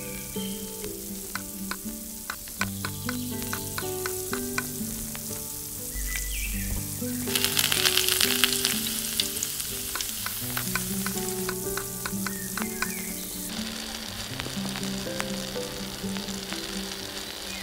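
Food frying in hot oil in a small pan: a steady sizzle with many small crackles, growing much louder from about seven seconds in and easing back near thirteen seconds. Soft background music with a plain melody plays throughout.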